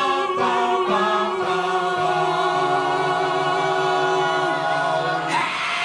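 A cappella vocal group singing the final chord of a song, several voices holding their notes together. Near the end, a burst of crowd cheering breaks in.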